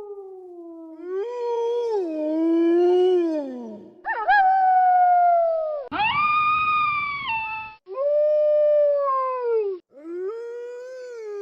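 Wolves howling: a string of about five separate long howls, each a couple of seconds, their pitch sliding and dropping at the end. Several howls cut off abruptly.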